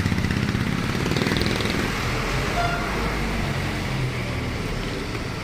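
Motor vehicle engine running steadily, with a rapid low pulsing, over a background of traffic noise.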